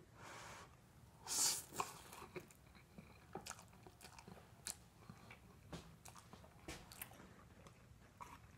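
Faint mouth sounds of eating instant cup ramen noodles: a short slurp about a second and a half in, then wet chewing with scattered small clicks and lip smacks.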